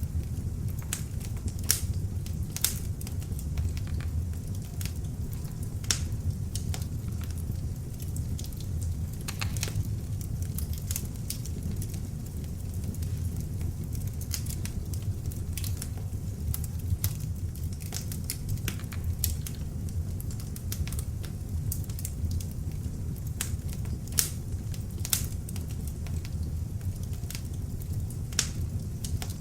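Beech-wood log fire burning in an open fireplace: a steady low rumble of flames with frequent sharp, irregular crackles and pops from the burning logs.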